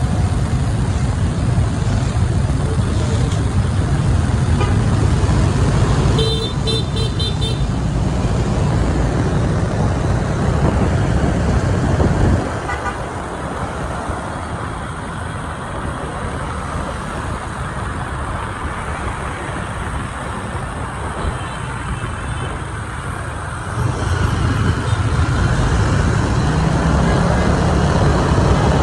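Riding a motorbike through city street traffic: a heavy low rumble of engines and road noise. A vehicle horn beeps several times in quick succession about six seconds in. The rumble drops about twelve seconds in and picks up again near the end.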